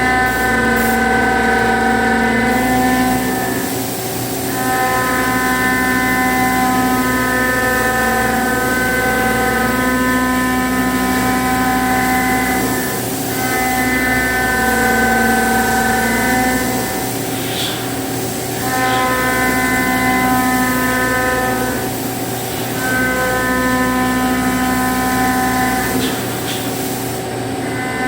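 A 25 mm cutter rough-milling aluminum alloy, giving a steady, loud cutting tone with several pitches. The tone drops away briefly about five times, as the cutter leaves and re-enters the cut.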